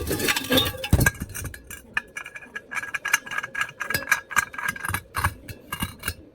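A rapid, irregular run of sharp clicks and knocks, with a heavier knock about a second in.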